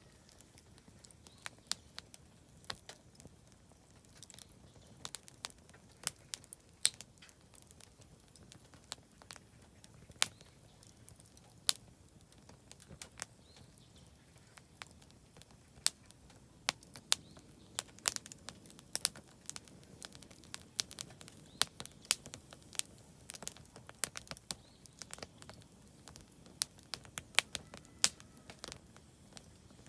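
Oak firewood burning in a campfire, crackling with irregular sharp pops and snaps over a low, steady hiss.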